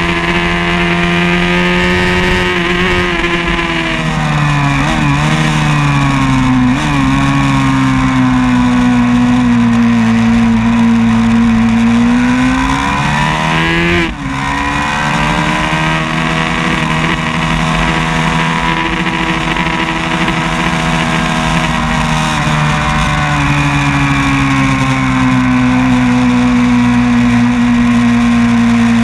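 A 500 cc class vintage racing motorcycle engine at race pace, heard from on board the bike. Its pitch dips and climbs through the corners, climbs to a sudden brief cut about halfway for a gear change, then climbs again and holds high on the straight.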